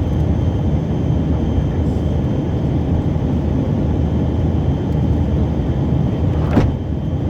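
Cabin noise of a Tupolev Tu-134AK airliner in level cruise: the steady rumble of its twin rear-mounted Soloviev D-30 turbofans and airflow, with a thin steady whine above it. A single short click comes near the end.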